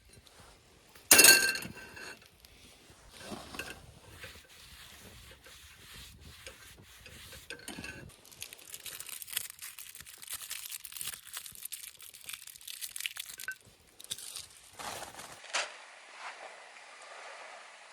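Cookware being handled during camp cooking: a loud metal clink that rings briefly about a second in, then scattered lighter clinks and knocks, and a stretch of fine crinkling crackle.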